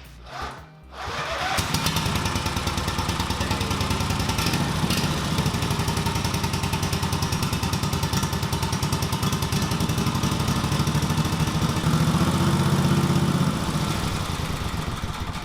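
V-twin minibike engine starting: two short cranking sounds, then it catches about a second in and runs with an even pulsing beat. It gets briefly louder a little past the two-thirds mark, then settles.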